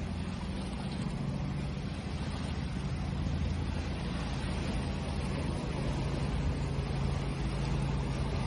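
Ocean waves as a steady rushing wash, with a low steady hum underneath.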